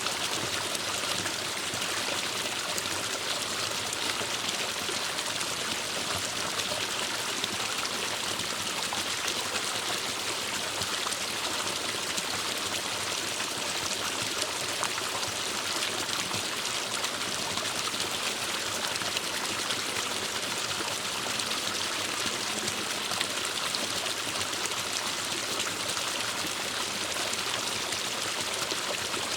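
Forest stream running steadily over rocks, a constant splashing and trickling rush of water.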